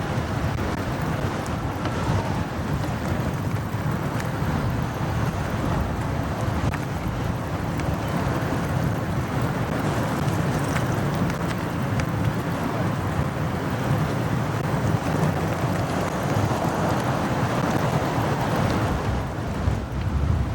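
Motorcycle riding through city traffic: a steady low engine and road rumble with passing traffic and some wind on the microphone.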